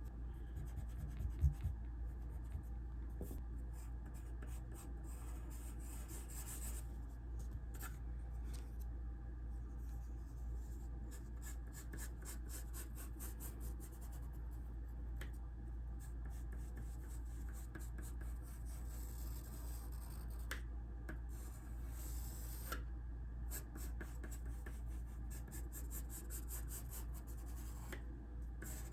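Sketching strokes scratching on sketchbook paper, in quick runs with short pauses, over a steady low hum. A brief knock about a second and a half in.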